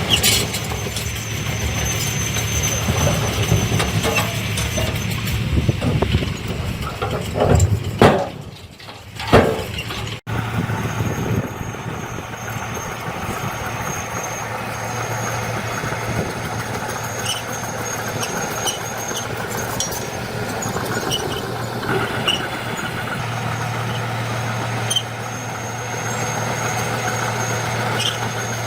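Diesel engines of heavy earthmoving machinery running steadily, with a thin high whine that comes and goes. The sound drops briefly and cuts off about a third of the way in, then the engine noise carries on.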